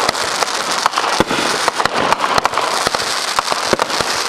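Consumer fireworks going off in a dense, continuous crackle of many rapid small pops and bangs.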